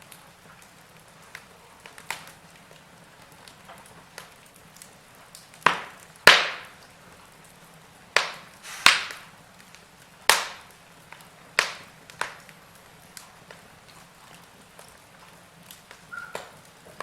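Wood fire crackling in a fireplace: sharp, irregular pops and snaps over a faint steady hiss, with a busy run of louder pops through the middle.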